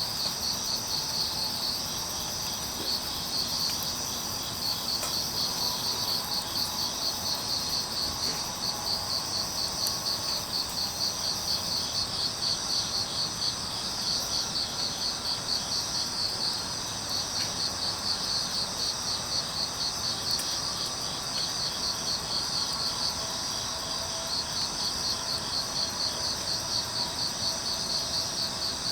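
Crickets chirping in a steady pulsing rhythm, with a few faint pops from a wood fire burning low.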